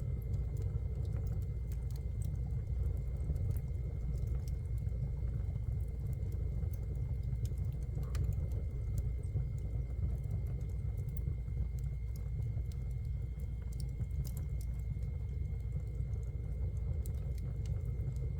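Wood fire burning in a fireplace, crackling with scattered small pops over a steady low rumble of the flames.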